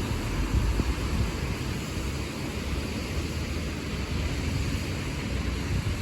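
Steady street traffic on a wet road: a low engine rumble from passing buses with a constant tyre-and-road hiss, and wind buffeting the microphone.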